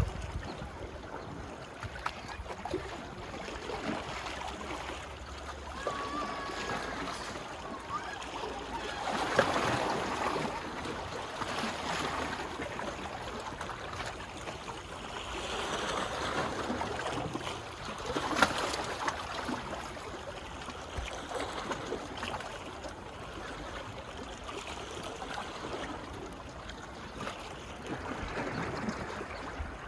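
Small waves lapping on a beach, the wash swelling and ebbing every few seconds, with a few light ticks.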